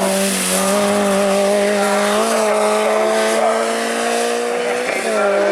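Racing car's engine pulling hard on a hill climb, its pitch slowly rising under load. The note dips briefly near the end, as at a gear change or a lift off the throttle, then picks up again.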